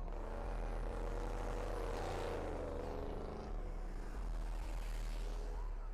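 A car engine driving past, its note swelling and bending up then down about two to three seconds in, over a steady low rumble.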